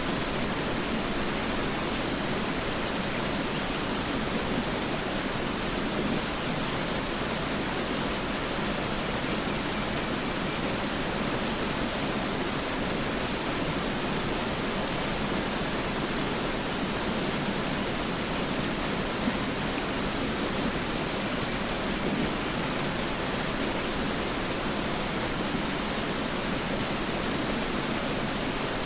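Mountain river rushing steadily: a continuous, even wash of flowing water.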